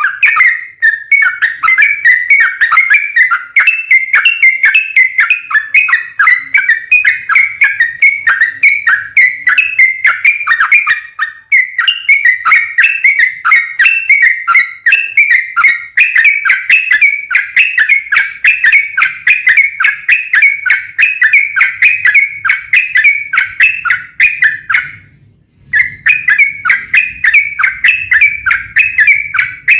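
Yellow-vented bulbul (trucuk) singing a fast, unbroken stream of short chattering notes, about three or four a second, breaking off briefly near the end before resuming.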